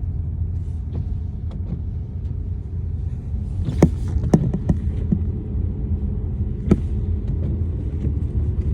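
Car cabin road noise while driving: a steady low rumble, with a few sharp knocks about four seconds in and another near seven seconds.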